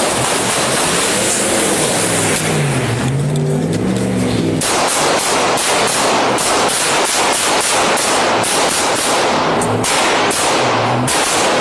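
Rapid volley of police handgun fire, many shots in quick succession, densest through the second half. Under the shots in the first half, a vehicle engine runs with a wavering pitch, from the suspect's truck.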